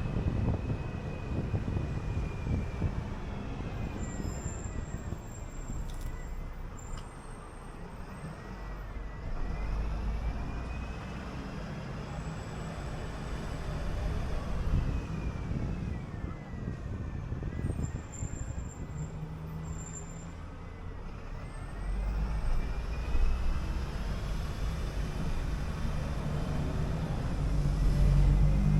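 City bus on the move: steady low engine and road rumble with a whine that rises and falls several times as the bus speeds up and slows. The rumble grows louder near the end.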